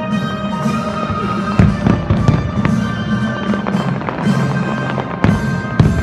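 Fireworks display: a string of sharp bangs and crackles, the loudest about a second and a half in and again near the end, over the show's accompanying music.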